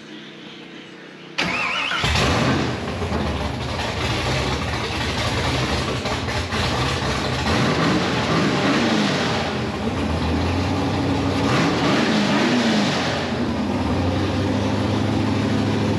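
The Camaro race car's supercharged engine, freshly fitted with new heads and cam, cranks and catches about a second in, then runs loud and rough. The revs rise and fall a few times, most clearly around the middle and again later.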